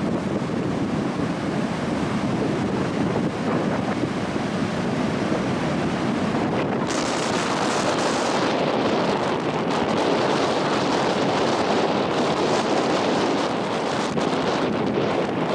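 Loud wind buffeting the microphone over the steady noise of surf breaking on the beach. The hiss turns suddenly sharper and brighter about seven seconds in, as a stronger gust hits.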